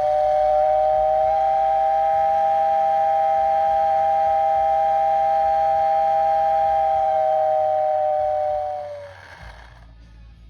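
Steel mill whistle blowing one long blast of about nine seconds: a loud two-note chord that sags slightly in pitch as it cuts off.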